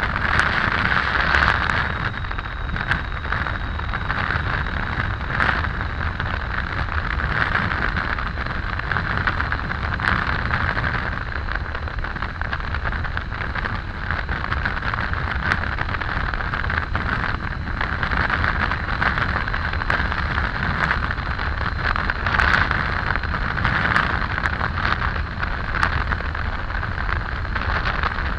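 Continuous riding noise from a Triumph Tiger 800 motorcycle at road speed: a steady rush of wind over the microphone over a low drone from the bike and tyres, with faint scattered ticks.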